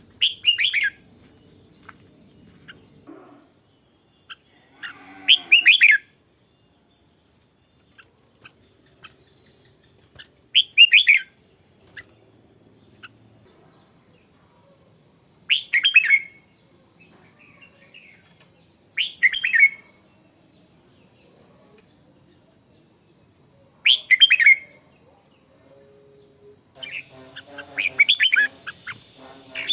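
Red-whiskered bulbul singing: six short, bright song phrases of about a second each, spaced roughly five seconds apart, with a faint steady high whine underneath.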